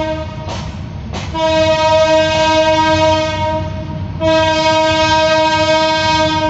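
Train horn sounding in long blasts over the low rumble of the train. One blast ends just after the start, a second runs from about a second in to about four seconds, and a third starts right after it. Two short knocks fall between the first and second blasts.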